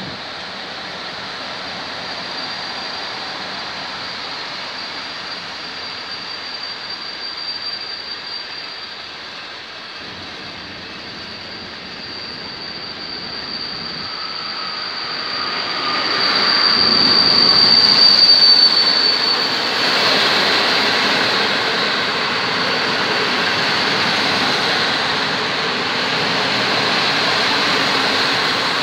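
EP08 electric locomotive hauling a passenger train past at speed. A steady high whine and a rising rumble come with the approach, loudest as the locomotive goes by about 17 seconds in. Then comes the steady rolling rush of the passenger coaches passing close.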